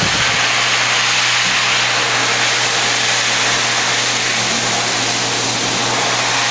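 Dyson Airblade V hand dryer running: a loud, steady rush of air over a constant low motor hum.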